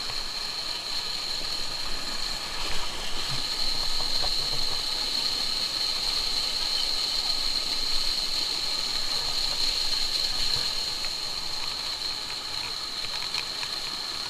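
Stream water rushing over rocks, a steady wash of noise with a steady high-pitched buzz over it.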